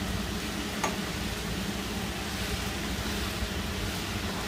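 Chopped spinach sizzling in a nonstick pan as it is stirred with a spoon for sautéing: a steady hiss over a low hum, with one spoon click about a second in.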